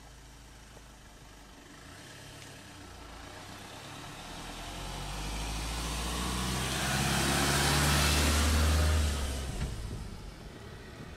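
A motor vehicle's engine and tyre noise growing steadily louder over several seconds, then dropping away sharply about nine seconds in.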